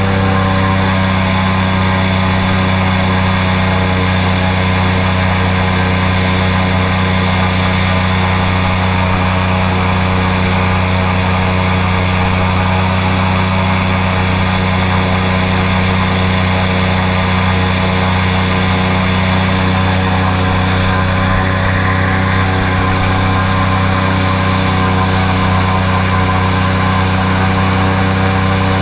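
Airboat engine and large air propeller running at a steady speed, a loud, even drone with a deep constant hum that does not change in pitch.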